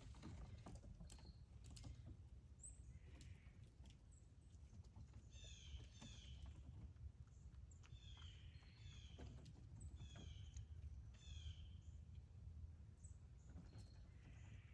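A bird calling faintly outdoors in several short runs of quick, high, down-slurred notes, over a low steady background rumble with scattered faint clicks.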